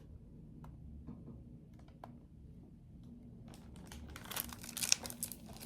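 Handling noise: a few faint clicks, then about two seconds of crinkly rustling and clicking near the end.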